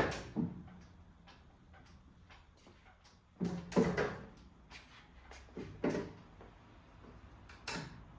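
Several separate knocks and clunks in small clusters, two at the start, a group about halfway, and a last one near the end, with a low steady background between them.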